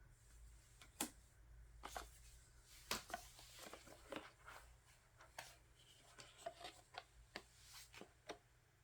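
Faint handling of photocards and album inclusions: scattered light taps and clicks of cards being picked up, set down and slid, about one a second, over a low steady hum.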